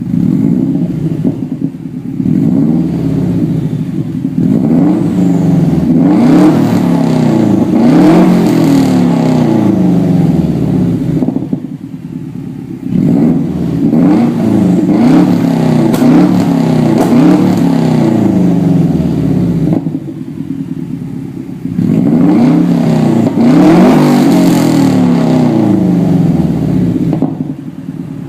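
2002 Subaru Impreza WRX's turbocharged 2.0-litre flat-four engine, heard through a 3-inch turbo-back straight-pipe exhaust with no resonator, being revved. Its pitch repeatedly rises and falls in three runs of blips, and it drops back to a loud idle twice in between.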